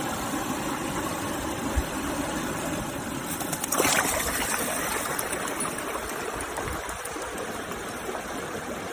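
Steady rush of running water, with one brief louder knock about four seconds in.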